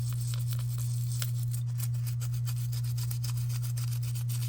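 A brush scrubbing small plastic model car parts, a quick run of short scratchy strokes, over a steady low hum.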